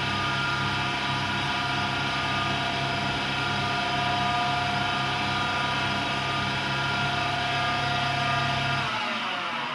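AEG Lavamat Turbo washer-dryer running with a steady motor hum and whine. About nine seconds in, the low hum drops away and the whine falls in pitch as the drum winds down.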